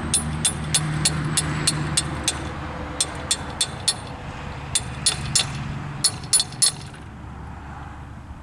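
Hammer tapping on a metal seal driver, a run of sharp ringing strikes in quick groups, driving a new seal into the gearbox case of a side-delivery rake; the strikes stop about seven seconds in. A steady low hum runs underneath.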